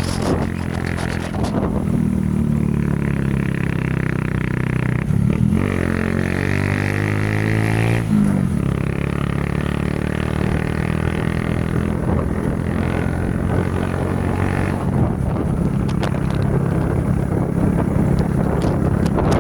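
A vehicle engine running steadily, its pitch rising and falling a few times about five to eight seconds in as the engine speed changes.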